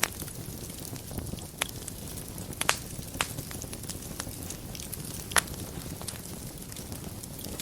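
Fireplace fire burning with a steady low rush, broken by sharp crackles and pops. The two loudest pops come a little over a third of the way in and about two-thirds through.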